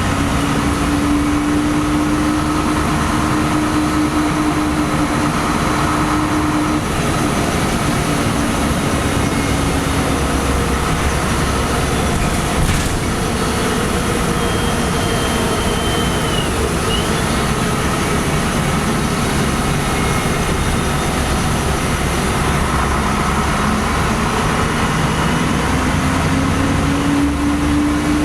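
LiAZ-5256 city bus on the move: a steady engine and drivetrain drone over road noise. A pitched whine sits on top, fades away in the first third and rises again near the end as the bus speeds up.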